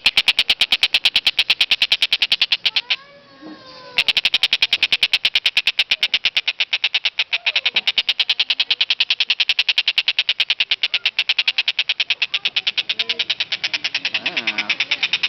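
A loud bird calling in a fast, unbroken series of sharp, high notes, about ten a second, which stops for about a second roughly three seconds in and then carries on.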